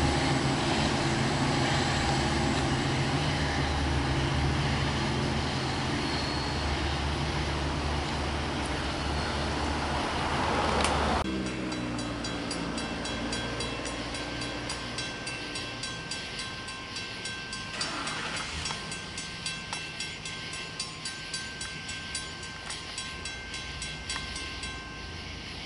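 A diesel locomotive's engine runs with a steady low drone, and a hiss builds toward a sharp click. About eleven seconds in the sound drops abruptly to a much quieter background with faint steady high tones and soft, regular pulses.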